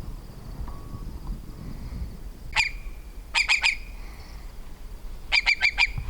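A marsh bird giving short, harsh calls: a single call, then a quick run of three, then a run of five near the end. A low, steady rumble lies underneath.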